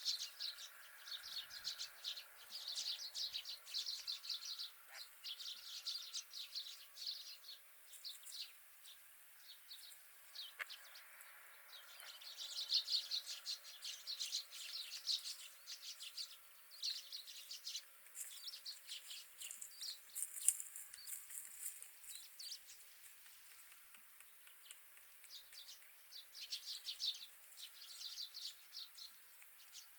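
Wild birds chirping and twittering in rapid clusters of short, high calls, thinning out and then picking up again, over a faint steady hum.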